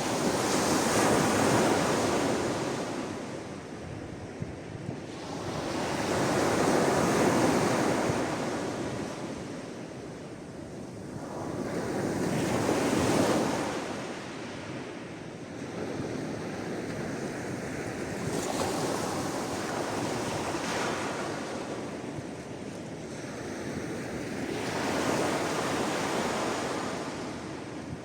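Sea waves washing onto the shore, each wave swelling and fading in slow surges about every five to six seconds.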